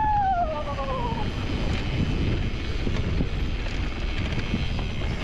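Wind rushing over the microphone and rumbling from the bumpy ride on a mountain bike speeding down a dirt trail. A rider's whoop falls in pitch and fades out about a second in.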